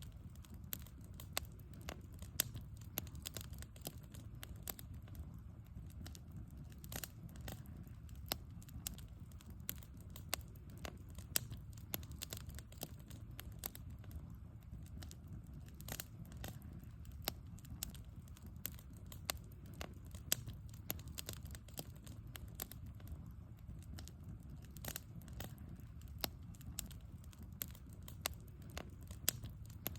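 Wood fire burning, crackling with frequent irregular sharp pops over a low steady rumble.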